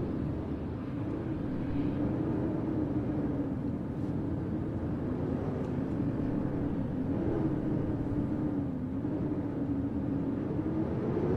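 Blizzard wind howling: a steady low moan that wavers slightly in pitch over a rumbling rush.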